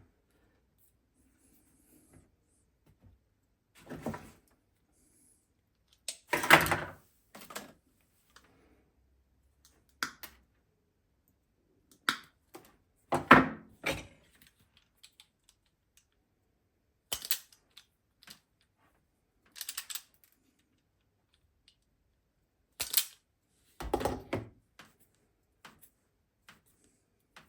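Scattered clicks, knocks and clatters of hard parts and tools being handled, with quiet gaps between them; a few thumps at about six, thirteen and twenty-four seconds are the loudest.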